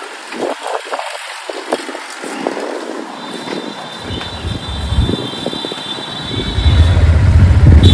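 Street traffic heard from a moving motorcycle, with wind noise on the microphone and scattered knocks. A steady high tone sounds for about three seconds midway, and a loud low rumble of vehicles builds near the end, the loudest part.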